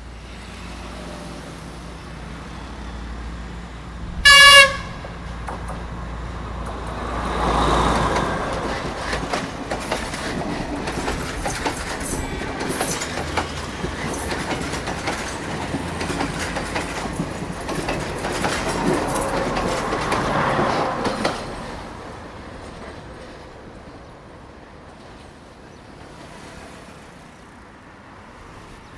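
A Sri Lankan Railways diesel train sounds one short horn blast about four seconds in. It then passes close by for about fourteen seconds, its wheels clacking over the rail joints, and fades away.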